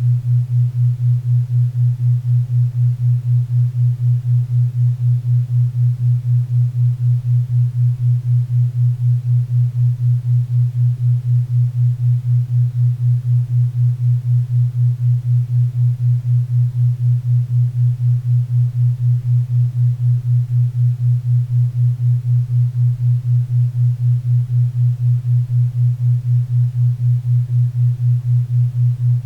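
A 4 Hz theta-wave beat: a low steady tone that swells and fades evenly about four times a second, over a faint bed of pink and brown noise.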